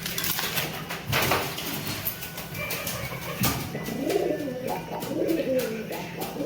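A pigeon cooing in a run of low, warbling, rising-and-falling coos that begin about halfway through, after a few sharp knocks.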